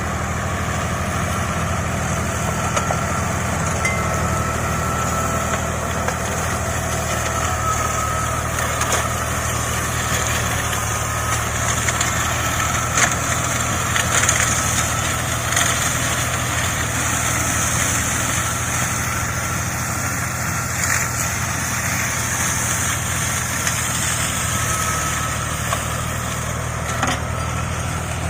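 A 55 hp tractor's engine running steadily while driving a heavy-duty mulcher, with a few sharp knocks and cracks as material goes through the mulcher.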